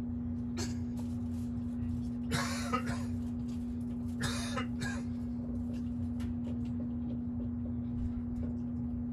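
Steady electrical hum over a low rumble inside an electric train carriage, broken twice by brief bursts of noise about two and four seconds in.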